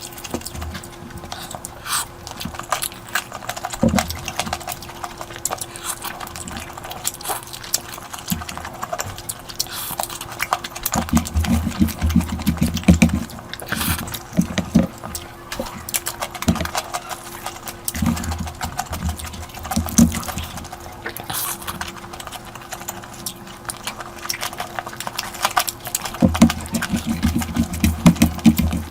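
Close-miked eating sounds: chewing and wet mouth noises with frequent sharp clicks and smacks, and heavier muffled chewing in stretches.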